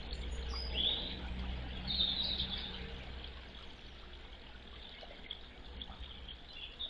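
A few short, high bird chirps, about a second in and again around two seconds in, with fainter ones later, over a steady low background rumble.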